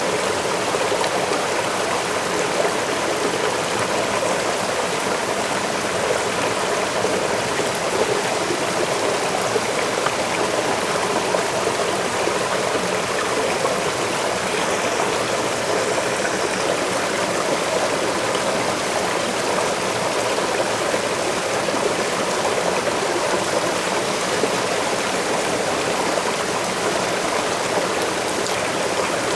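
Waterfall rushing steadily: an even, unbroken wash of falling and flowing water.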